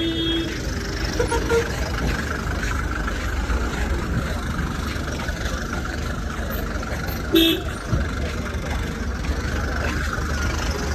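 Motor vehicle traffic running steadily with engine and road noise. A short horn toot sounds right at the start and another about seven seconds in.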